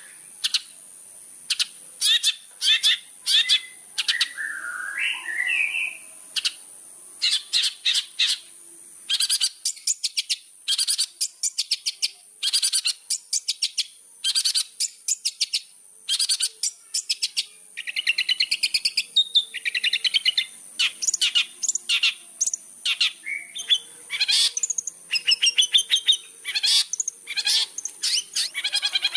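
Long-tailed shrike in full song: rapid bursts of short, sharp chattering notes, broken by quicker warbling phrases near the start and again about two-thirds through.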